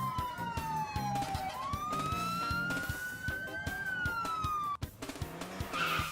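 Fire truck siren wailing: one slow tone that falls, rises again and cuts off suddenly about five seconds in. Background music with a steady beat plays under it.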